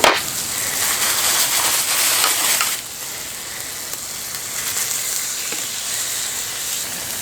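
Food sizzling in a frying pan, with a knock at the very start. The sizzle drops to a softer steady level about three seconds in.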